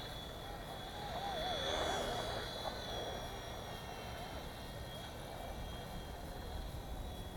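WLtoys V911-pro micro RC helicopter's electric motor and rotors whining in flight, the pitch wavering up and down as the throttle is worked. It is loudest about two seconds in.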